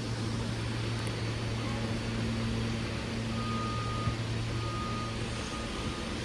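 Subway train running with a steady low hum, joined about halfway through by a high, single-pitched electronic beep that repeats about once a second.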